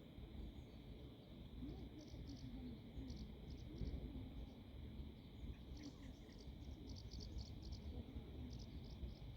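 Faint, steady high-pitched buzzing of insects in grass, with short high chirps repeating in little clusters, over a low rumble of wind on the microphone.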